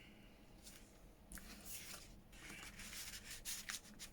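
Faint rustling and rubbing of paper and card: a handmade paper insert being slid into a junk journal.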